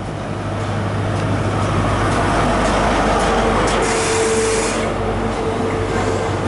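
InterCity 125 High Speed Train, a class 43 diesel power car with Mark 3 coaches, running along the platform. The sound builds over the first two seconds as the power car draws level, then holds as a steady low hum and rumble while the coaches roll past. A thin steady whine joins in the second half.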